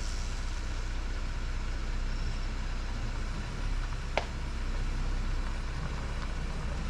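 2024 Jeep Gladiator running with a steady low engine hum, with one sharp click about four seconds in.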